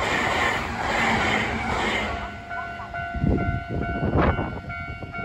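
Nankai commuter electric train running through a station: its wheels rumble and clatter over the rail joints in a steady rhythm, fading away about two seconds in as the last car passes. A faint ringing and a few low thumps follow.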